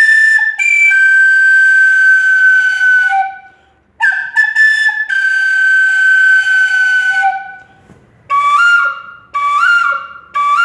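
Flute imitating birdsong: two long held high notes, each sagging slightly in pitch before breaking off, then a quick run of short notes that step up and down.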